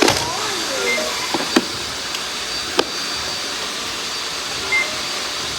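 Many Roomba robot vacuums running together: a steady whirring hiss with a thin high whine, broken by two sharp clicks and, near the end, a short high beep.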